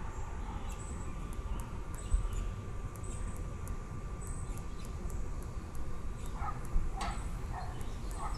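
Baby birds calling: thin high chirps, then four short lower calls near the end, over a steady low rumble.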